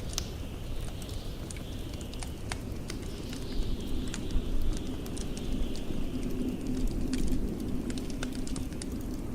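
Wood fire crackling with many irregular small pops and snaps, over the steady low rumble and hiss of blizzard wind, with a low wind howl swelling in the second half.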